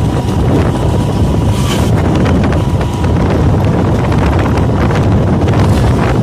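Loud, steady wind buffeting the microphone, a continuous low rumble with a few faint ticks.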